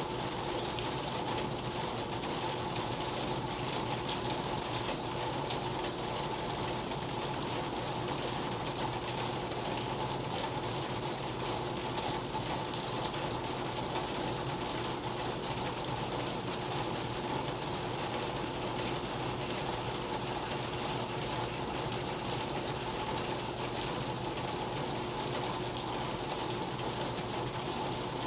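Steady rain with a dense, fast patter of drops ticking on a hut's roof and walls, unchanging throughout.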